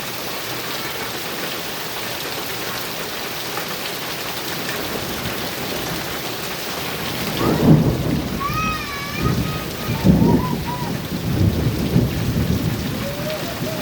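Heavy rain falling steadily on a metal roof, then thunder rumbling in several swells from about halfway through.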